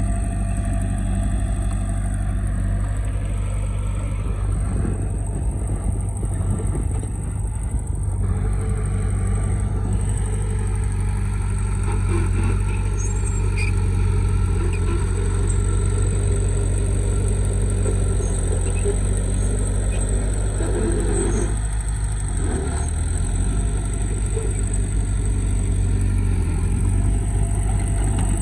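Heavy vehicle's engine running steadily at a low, even hum, with slight changes in revs.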